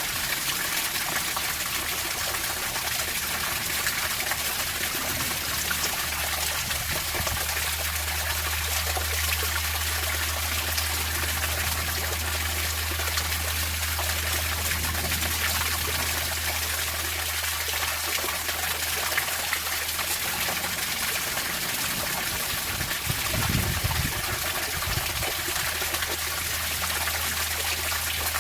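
Water trickling and splashing steadily, with a low hum underneath for most of it and a brief low rumble about 23 seconds in.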